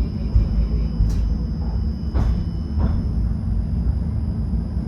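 Tram running on its rails, heard from on board: a steady low rumble with three sharp knocks. Faint high steady tones run through it.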